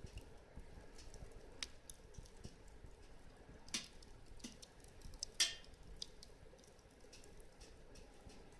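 Burning firewood crackling: scattered small snaps and pops, with two sharper pops a little under four seconds in and about five and a half seconds in.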